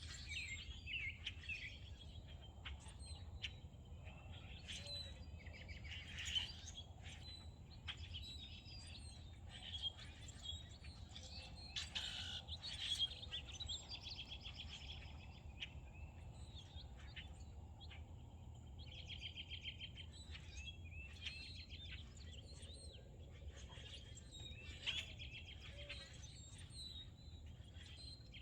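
Several songbirds chirping and singing at once, with a fast, even trill about two-thirds of the way in. A steady low rumble lies underneath.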